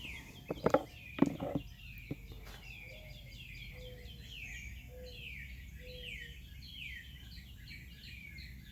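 Songbirds chirping over and over, a chorus of short downward-sliding notes, with a few soft low whistles in the middle. About a second in come a few loud knocks.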